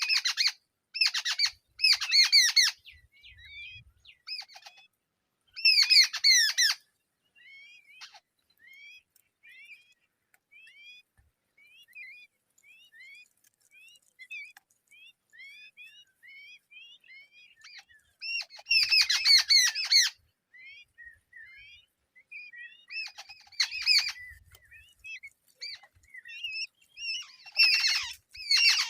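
Nestling birds calling from the nest, a cuckoo chick among them: loud harsh raspy squawks in bursts of about a second, several times, with a steady string of thin, short down-slurred chirps in between.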